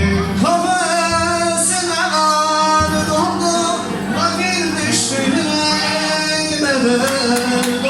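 Turkish folk song: a voice singing long held, wavering notes over instrumental accompaniment.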